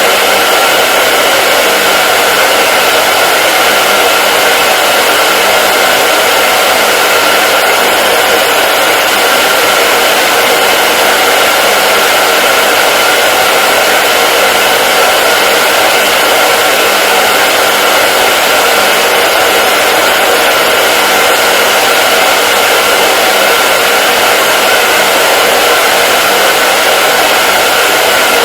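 Hair dryer running steadily on a constant setting: an even rush of airflow from the fan, with a faint steady hum in it.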